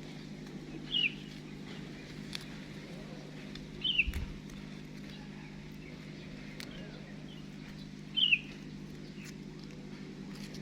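Baby monkey giving three short, high-pitched squeaks that fall in pitch, about three to four seconds apart, over a steady low hum.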